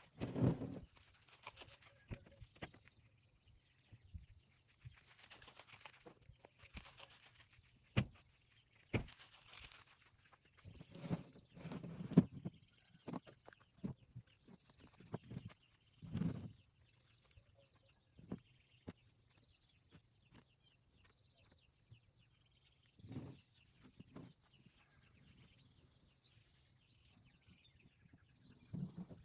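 Steady high-pitched chorus of insects, likely crickets, with scattered knocks and a few louder thumps.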